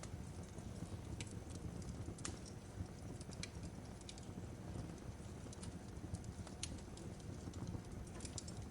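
Fireplace fire crackling: a steady low rumble of burning with irregular sharp pops and snaps from the wood.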